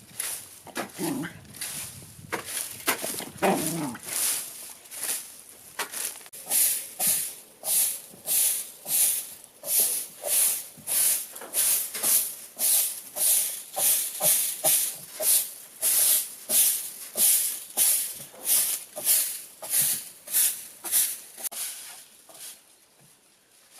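Dog panting: even, hissy breaths at about two a second. In the first few seconds there are a couple of falling whines.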